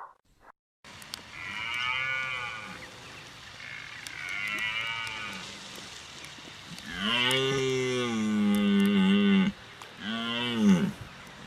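Cow mooing: four drawn-out moos, two fainter ones, then a long loud one and a short final one near the end.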